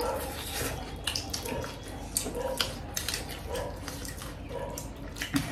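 People chewing and smacking their lips on saucy momos and kathi rolls, close to the microphone: a run of irregular wet smacks and clicks.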